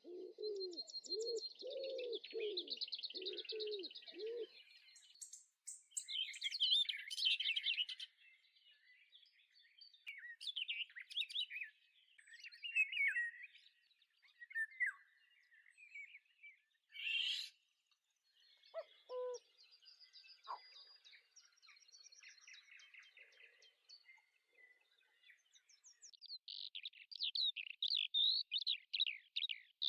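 Birds chirping and singing, many short calls and trills overlapping, with a run of about six lower calls in the first few seconds and a denser burst of chirps near the end.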